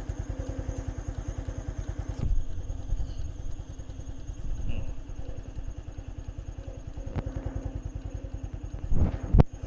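A small engine idling steadily with a rapid, even pulse. A loud thump comes about two seconds in, and two more come near the end.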